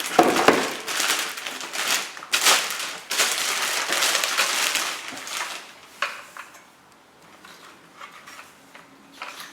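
Packaging being handled during an unboxing: plastic wrapping and cardboard rustling and crinkling, loud and dense for about the first five seconds, then dying down to a few faint rustles and clicks.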